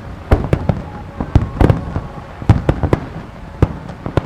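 Star mine fireworks barrage: aerial shells bursting in a rapid, irregular series of about a dozen loud bangs, some close together, with faint whistling between them.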